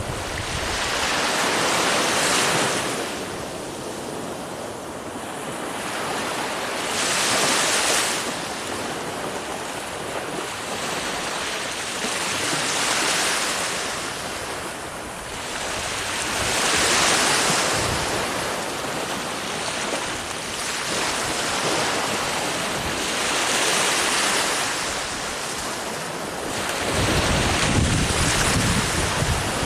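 Ocean waves breaking and washing up the shore, the surf swelling and falling back every few seconds. Near the end, wind buffets the microphone with a low rumble.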